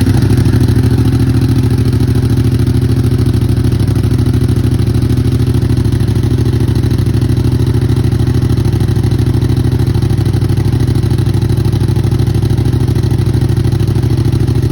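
Yamaha MT-07's parallel-twin engine idling steadily through a cheap aftermarket slip-on exhaust with the baffle in, just after being started following about a week unused.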